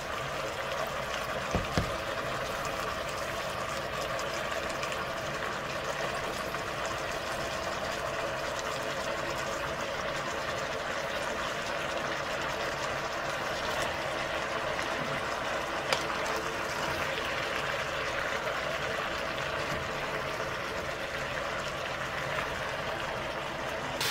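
Potatoes frying in oil in a cooking pot: a steady sizzling hiss, with a brief knock about two seconds in and another about two-thirds of the way through.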